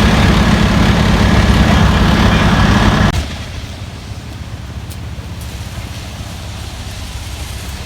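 Heavy truck engine running loud with a thin steady whine, dropping suddenly about three seconds in to a low idling rumble.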